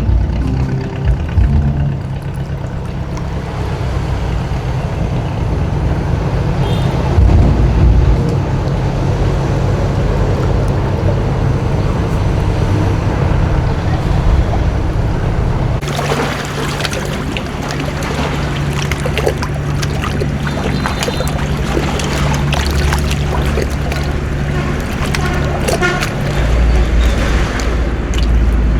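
Boat engine running steadily on the river. About halfway through the sound changes abruptly, and a rushing hiss of water and wind is added over the engine drone.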